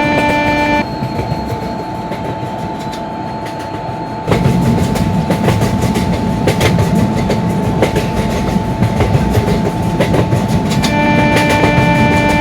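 Train running past at speed, its wheels clacking over the rail joints; the loud rumble and clatter come in suddenly about four seconds in and go on until near the end.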